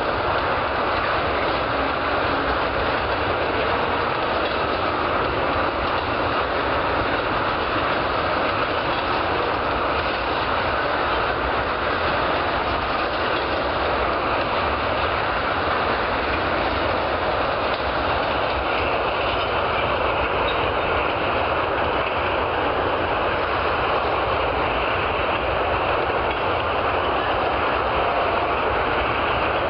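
Freight train of tank cars rolling past, its steel wheels on the rails making a steady, unbroken noise of wheels and track.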